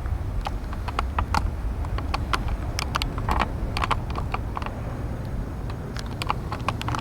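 Irregular sharp clicks and ticks, several a second and uneven in spacing, over a steady low rumble.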